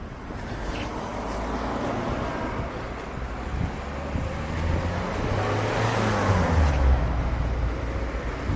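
A motor engine passing close by over road or traffic noise, loudest about six to seven seconds in, its pitch dropping as it goes past.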